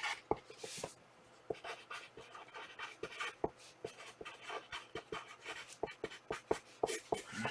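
Irregular light clicks and taps, several a second, mixed with short soft rustles: small objects being handled at a desk.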